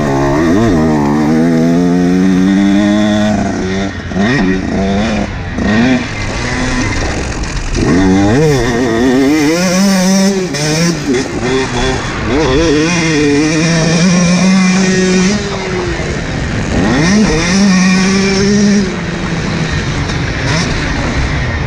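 Husqvarna TC125 two-stroke motocross bike engine revving hard under riding. The pitch climbs and falls back again and again as the rider works the throttle through the gears.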